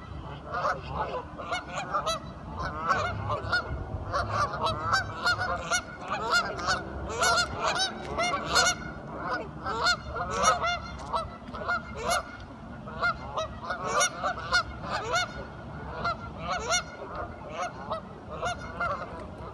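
A flock of ducks calling, many short overlapping quacks in a constant chatter.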